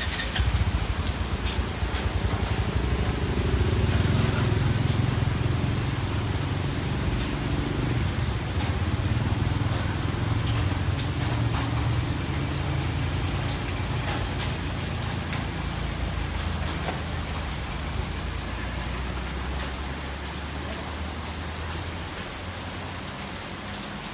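Steady rain falling, an even hiss of many drops. Under it a low rumble swells over the first few seconds and slowly dies away over the last third.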